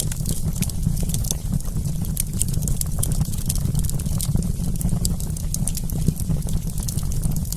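Wood campfire crackling, with many small sharp pops and snaps at irregular intervals over a steady low rumble.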